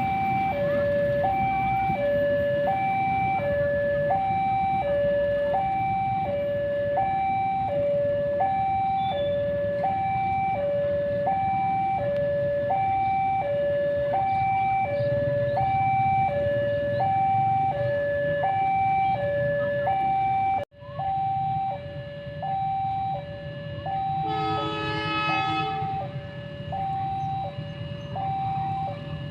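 Railway level-crossing alarm sounding a steady, evenly repeating two-note high-low tone over the low rumble of a diesel locomotive. The sound cuts briefly about two-thirds of the way through. Near the end a short horn-like tone sounds once.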